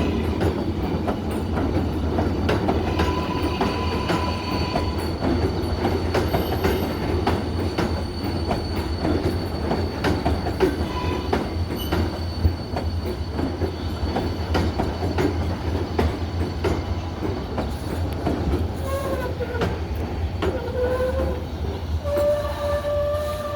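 R188 subway train running on steel rails: a steady rumble with frequent clicks of wheels over rail joints, and brief high wheel squeals early on. Near the end, rising stepped tones settle into a sustained layered whine.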